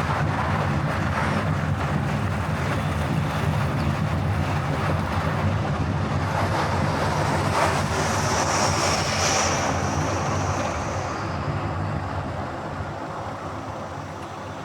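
Car driving at speed on a highway: steady road, engine and wind noise that fades out over the last few seconds.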